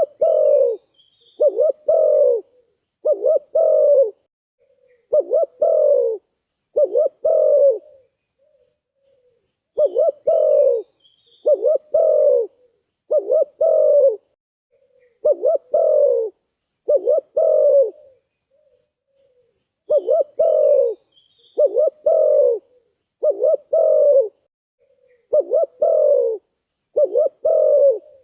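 Spotted dove cooing: three repeated phrases of about five deep, rounded coos each, one phrase roughly every ten seconds.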